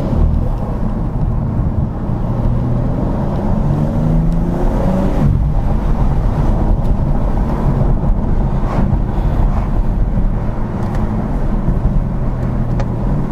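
BMW M4 Competition's twin-turbo straight-six on the stock exhaust, pulling steadily with road rumble. A few seconds in, the engine pitch climbs for about a second, then drops at a gear change.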